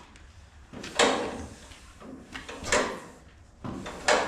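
1936 John Deere Model A's two-cylinder engine being turned over by hand from cold: three separate sharp puffs, about one and a half seconds apart, as the flywheel is pulled through compression, with no steady running in between. It has not caught yet.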